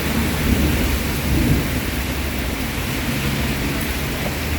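Heavy rain pouring steadily, with a low rumble swelling during the first second and a half and a faint low hum from about three seconds in.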